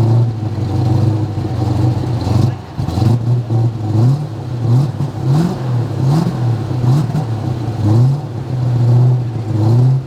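Ford Boss 429 V8 in a 1970 Mustang idling, then revved in a string of quick throttle blips, each a short rise in pitch that falls back, before settling to a steady idle again near the end.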